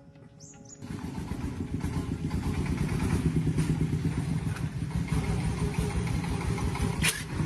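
A vehicle engine running steadily with a rough, rapid beat. It cuts in abruptly about a second in and builds to full level within a couple of seconds.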